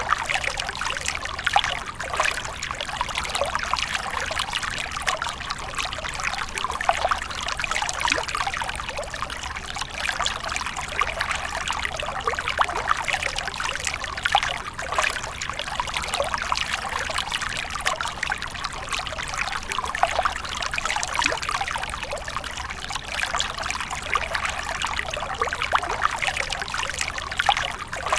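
Running water splashing steadily: a dense, unbroken patter of small splashes and trickles.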